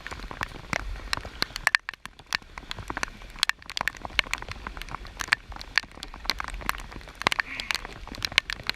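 Rain falling on the river, with many irregular sharp ticks of drops striking close to the microphone.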